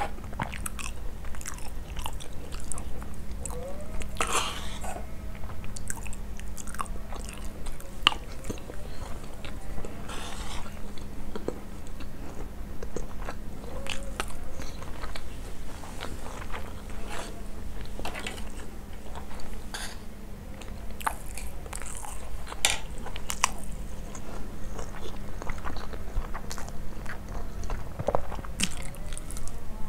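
Close-miked chewing and mouth sounds of someone eating basmati rice with yogurt: scattered wet clicks and smacks with a few louder crunchy bites, over a low steady hum.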